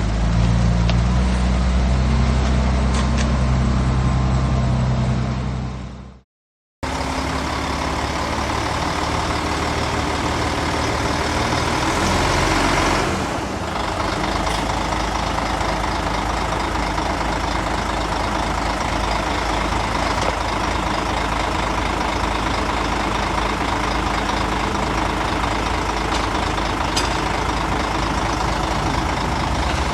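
Heavy diesel engines of earthmoving machinery running steadily. About six seconds in the sound cuts out for half a second and resumes with a different engine drone, with a brief swell a few seconds later.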